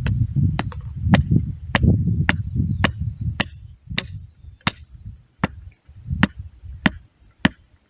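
Wooden stake being hammered into the ground: a steady series of about a dozen sharp strikes, roughly two a second, slowing a little near the end.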